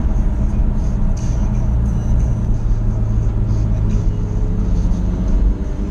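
Jaguar F-Type SVR's supercharged V8 running under steady load at road speed, with tyre and road noise; the engine pitch rises gently over the last few seconds.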